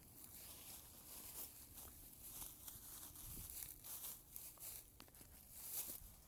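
Faint, irregular rustling and crackling with many small clicks.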